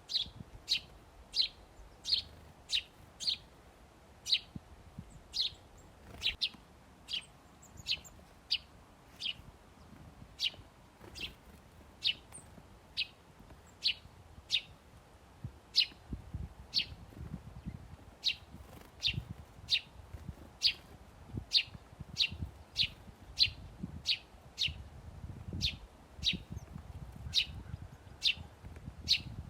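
A small songbird giving short, sharp chirps over and over, about one to two a second in a steady rhythm, over a faint low rumble.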